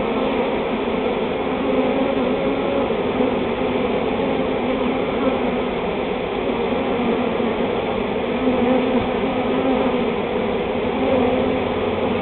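Steady, loud hum of a honeybee swarm, thousands of bees buzzing at once.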